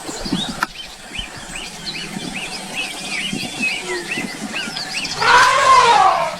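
Birds chirping: a quick run of short high chirps, then near the end a louder, longer call that falls in pitch.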